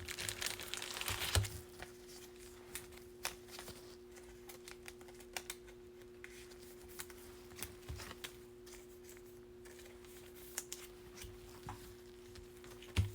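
Baseball cards handled and flipped through by hand: soft, scattered clicks and taps, over a faint steady hum.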